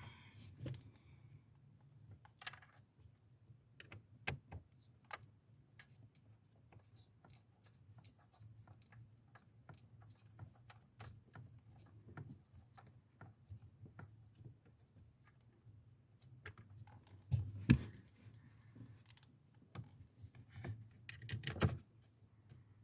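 Scattered light clicks and taps of small parts and tools being handled during work on the car's actuator, with a few louder knocks in two clusters, one past the middle and one near the end, over a low steady hum.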